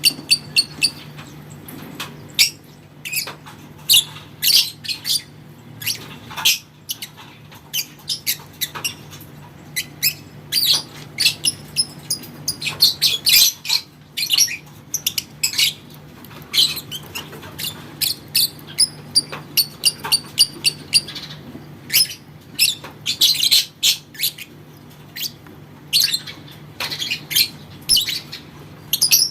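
Lovebird calling: strings of short, shrill chirps and squawks in quick bursts, with brief pauses between runs, typical of the lovebird chatter ('ngekek') used as a training recording for competition birds.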